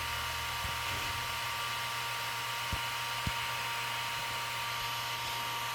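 Switched-on DJI Mavic 2 Pro drone giving off a steady whirring hiss with two steady high tones, an abnormal start-up noise that the owner thinks may be its cooling fan. Two soft low knocks come about three seconds in.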